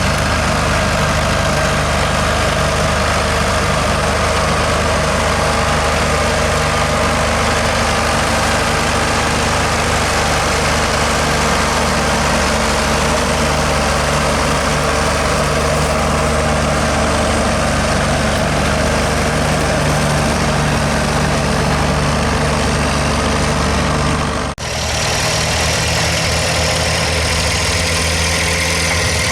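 Diesel tractor engine running steadily. About 24 seconds in the sound drops out for an instant and comes back with a slightly different tone.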